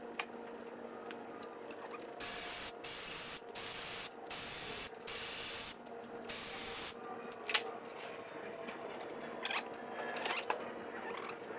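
Aerosol parts cleaner sprayed in about six short bursts of hiss, each roughly half a second long, cleaning engine parts, over a faint steady hum.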